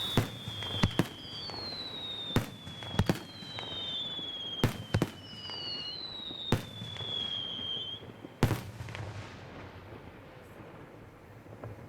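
Fireworks display: a rapid, irregular string of sharp bangs from bursting shells, overlapped by several high whistles that each glide downward in pitch over a second or two. The last loud bang comes about eight and a half seconds in, followed by a fading rumble.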